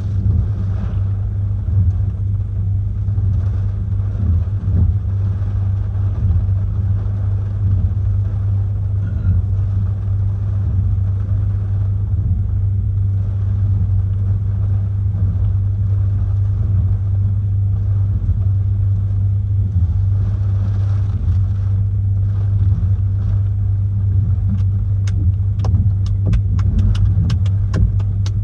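Strong hurricane wind buffeting the microphone in a steady, heavy low rumble. A quick run of sharp clicks or taps comes near the end.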